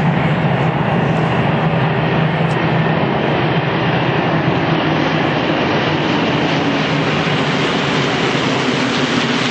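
Piston engines of a large formation of Second World War fighters, P-51 Mustangs among them, flying past together: a loud, steady, deep drone.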